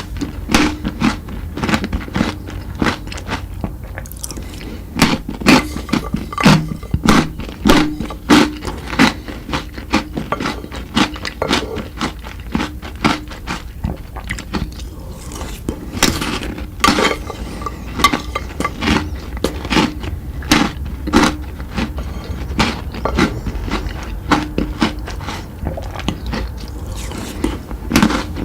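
Close-up eating sounds: a person biting and crunching chocolate treats, with many sharp irregular crunches, clustered several to a second in places.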